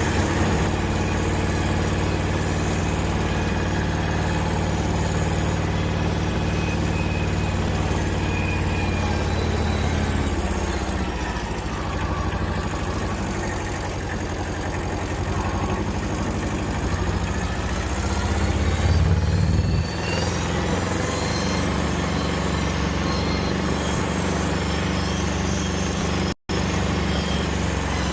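A 1979 Kubota L185 tractor's two-cylinder diesel engine running steadily as the tractor is driven. Its note drops a little about ten seconds in and rises briefly near twenty seconds. The sound cuts out for an instant near the end.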